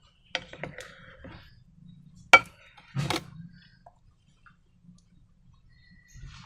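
Sharp clicks and knocks from objects being handled, with one loud, sharp snap a little over two seconds in and a short crackling burst about a second later.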